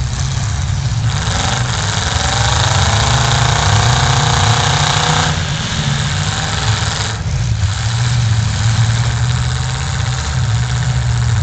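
Pickup truck engines running in a demolition derby arena, a steady low drone throughout. One engine revs up from about a second in and drops back after about five seconds, then the noise picks up again near the end.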